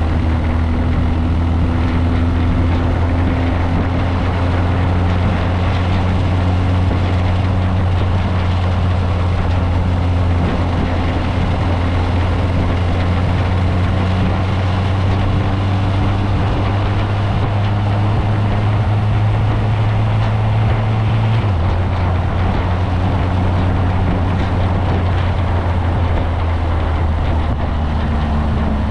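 Motorcycle engine running at a steady pitch, which steps down slightly about two-thirds of the way through.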